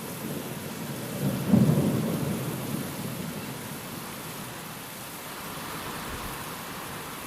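Steady heavy rain hissing, with a single roll of thunder that breaks about a second and a half in and rumbles away over the next couple of seconds.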